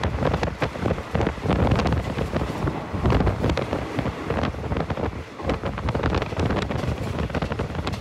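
Wind buffeting the microphone on board a moving train, over the running noise of the carriage with many irregular knocks and rattles.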